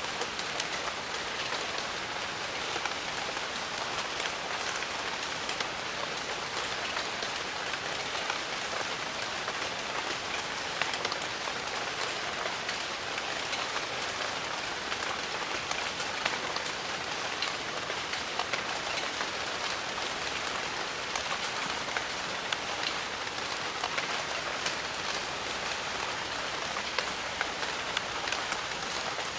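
Steady rain falling on a surface, a dense even hiss dotted with the ticks of individual drops.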